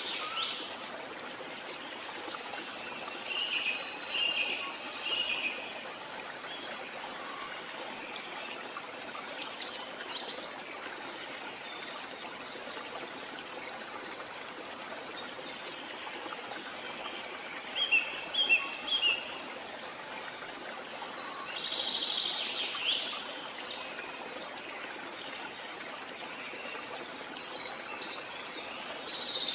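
Small songbirds chirping and singing in scattered phrases over a steady background hiss. The loudest moment is a quick run of short chirps about 18 seconds in, followed by a longer call a few seconds later.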